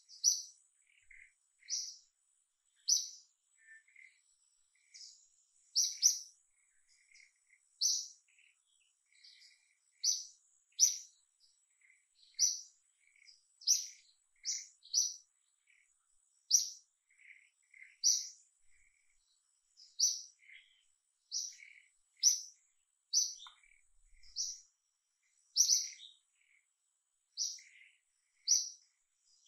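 A bird chirping over and over: short, high chirps about once a second, with fainter, lower notes in between.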